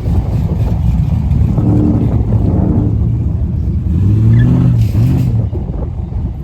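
Car engine revving twice over a low rumble. Its pitch rises and falls each time, and the second rev, about four seconds in, is the louder.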